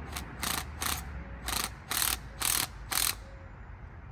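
Hand socket ratchet clicking in seven short runs, one per back-and-forth stroke, over about three seconds.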